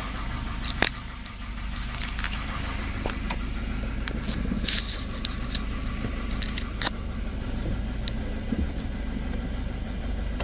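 1988 Volvo 240 GL engine idling steadily, with a knock that the owner takes for piston slap. Several sharp, irregular clicks stand out, the loudest about a second in.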